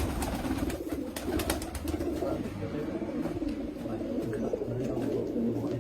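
Several domestic pigeons cooing continuously in a low, warbling drone, with a few faint clicks.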